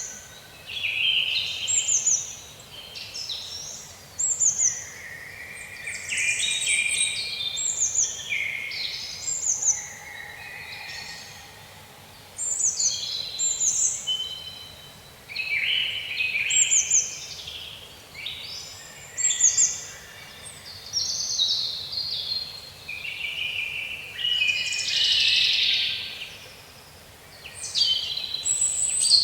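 Songbirds chirping and singing: many short, quickly falling high whistled notes and trills from several birds overlapping, coming in bursts every second or two.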